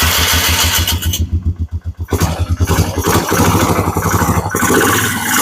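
Polaris Magnum 330 ATV's single-cylinder four-stroke engine running, its regular firing pulses uneven for the first couple of seconds, then settling into a steadier run.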